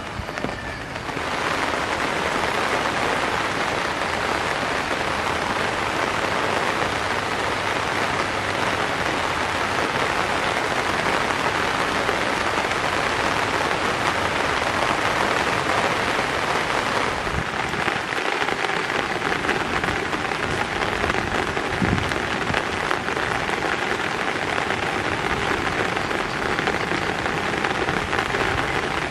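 Steady rain falling, an even hiss that gets louder about a second in.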